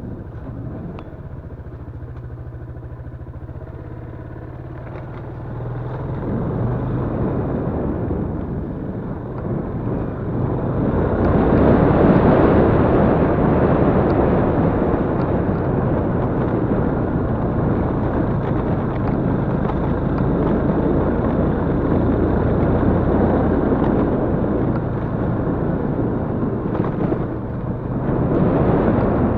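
Yamaha Crypton-X underbone motorcycle's single-cylinder engine running while being ridden. It is fairly quiet and steady at first, then grows louder about ten seconds in and stays loud.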